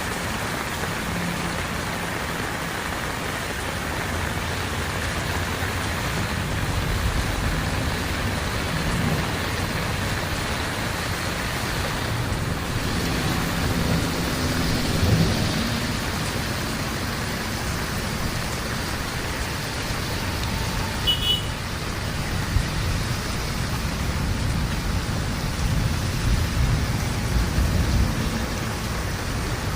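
Heavy rain falling steadily, with low rumbling that swells and fades a few times.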